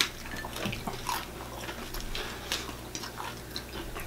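Chewing and crunching of crispy fried chicken, a run of short, irregular crackles.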